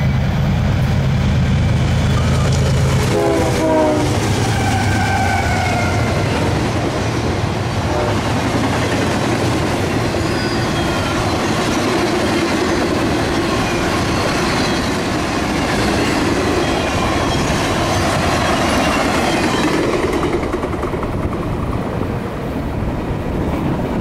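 A diesel-hauled intermodal freight train passing close by. The locomotive's engine hum and a horn blast give way about three seconds in to a long string of trailer-carrying flatcars rolling past with clickety-clack and faint high wheel squeals.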